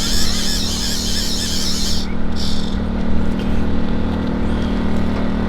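Hand-cranked fuel pump squealing as it is cranked to fill a large RC model airplane's fuel tank. The squeal stops suddenly about two seconds in and comes back briefly, over a steady low hum.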